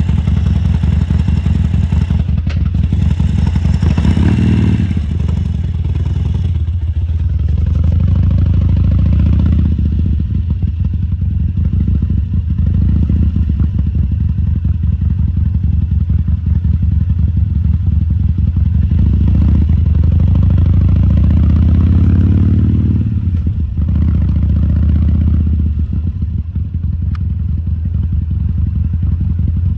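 2014 Harley-Davidson Sportster XL1200C's air-cooled 1200 cc V-twin running at low speed with a steady, loud beat. It picks up briefly about four seconds in, climbs again from about nineteen seconds, and eases off near twenty-three seconds.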